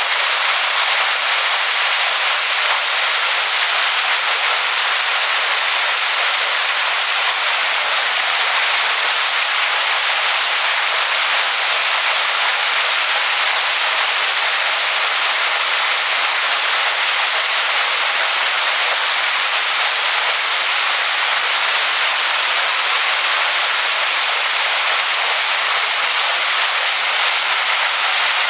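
Waterfall splashing onto rocks: a steady, bright hiss of falling water, unchanging throughout.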